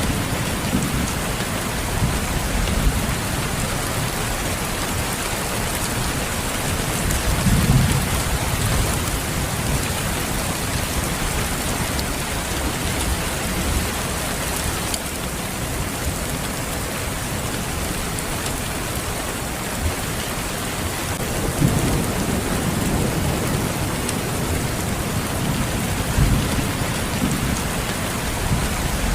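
Steady heavy rain falling, with low rolls of thunder: one about a quarter of the way in and two more in the last third.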